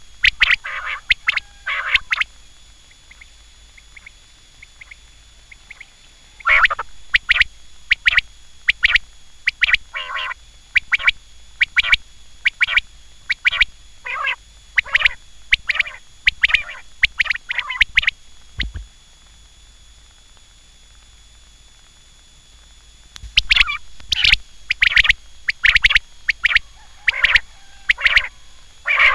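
Quail calling: rapid series of short, sharp notes in runs lasting a few seconds. There is a pause of several seconds about two seconds in and a longer one in the middle, and a faint steady high tone sits underneath.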